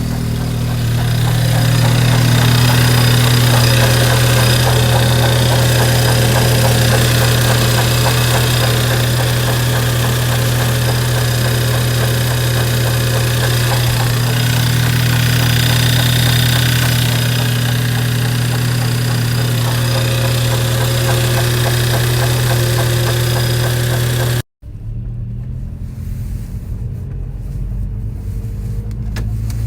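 VW Golf 5 GTI 2.0 TFSI (BWA) turbocharged four-cylinder engine running steadily with a knocking noise, which the owner suspects comes from the timing belt or the water pump. About 24 seconds in the sound cuts off abruptly and resumes quieter.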